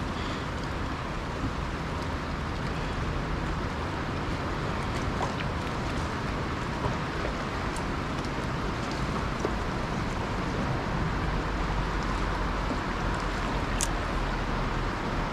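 Steady outdoor wind and water noise with a low rumble underneath.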